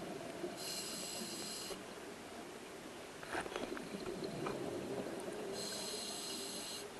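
Scuba diver breathing through a regulator underwater: a hissing, whistly inhale about half a second in, a burst of bubbling exhaust around the middle, and a second inhale near the end.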